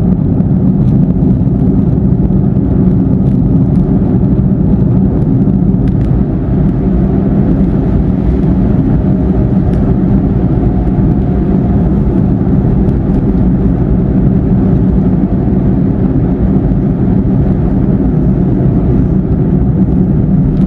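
Steady road and engine noise inside a car cruising on a highway, a constant low rumble with no change in speed.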